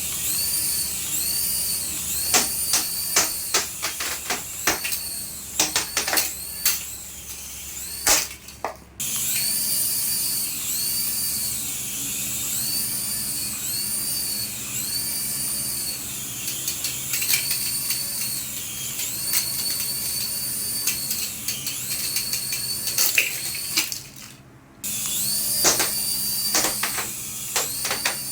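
Electronic sound effect from a battery-powered toy: a high warbling tone that rises and falls over and over, about one and a half times a second, mixed with sharp plastic clicks and taps. It cuts out briefly twice.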